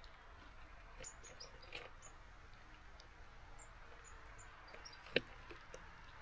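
Small garden birds at a feeder: scattered short, high chirps and light taps of beaks and feet on the feeder, with one sharper tap about five seconds in. A faint steady hiss of rain lies underneath.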